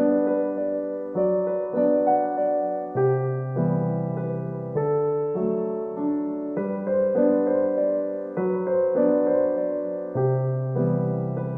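Background music: a gentle solo piano piece, notes and chords struck in an even rhythm and left to ring.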